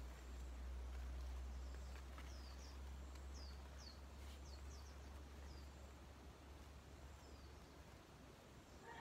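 Faint bird chirps: a string of short high notes, each falling in pitch, over a low steady rumble, with a few light rustles and clicks of the woven plastic sack being spread at the start.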